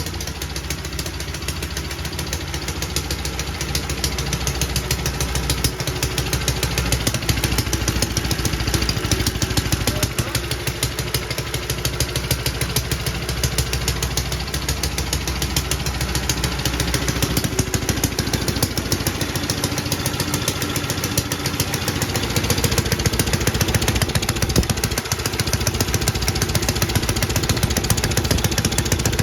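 1947 JAP Model 5 single-cylinder four-stroke engine running steadily, a fast, even firing beat.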